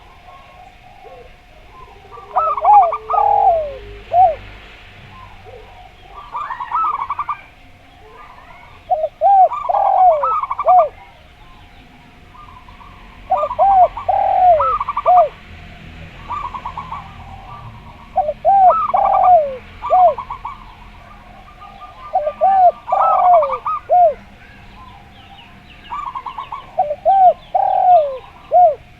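Zebra dove (perkutut) and spotted dove (derkuku) cooing. Repeated phrases about every four seconds, each a quick run of notes followed by a few falling, hooked coos.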